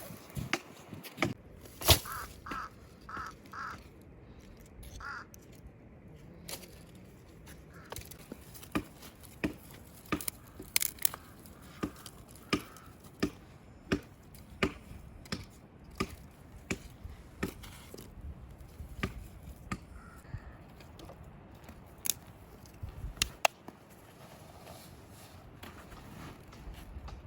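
Chopping with a blade on wood: a long run of sharp knocks, roughly one a second, quickest and most regular through the middle stretch.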